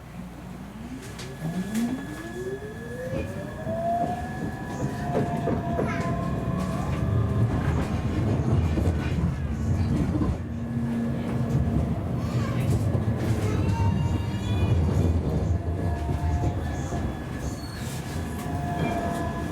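Siemens Avenio tram pulling away, its traction motor whine rising in pitch over the first few seconds, then running along the track with a rumbling, clattering ride and some wheel squeal.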